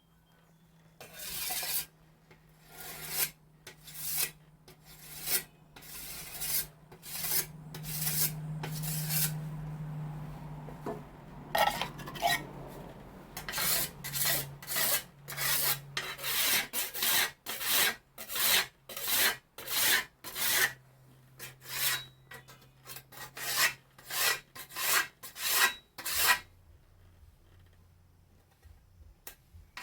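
Whetstone being stroked along the edge of an Austrian scythe blade to hone it, a rapid run of short scraping strokes at about one to two a second that stops near the end.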